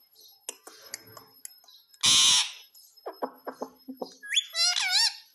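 Pet rose-ringed parakeet calling: one loud harsh squawk about two seconds in, then a quick run of short chattering notes, and a warbling whistle that swoops up and down in pitch near the end.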